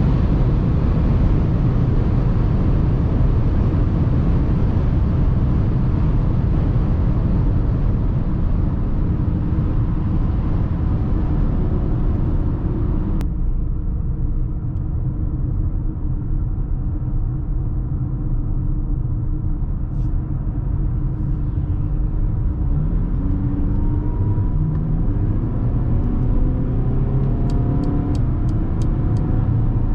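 Cabin noise of a Mercedes GLA 220d 4MATIC, whose 2.0-litre four-cylinder diesel runs under a heavy rush of road and wind noise at speed. About halfway through the rushing noise drops off abruptly. In the last third the engine note rises repeatedly and falls back at each gear change as the car accelerates.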